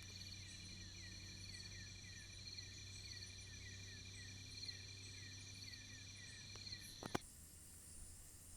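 Night insects calling in the forest, faint: several steady high-pitched drones with a short chirp repeating about twice a second. About seven seconds in the calls cut off abruptly with a click, and a different, higher insect drone carries on.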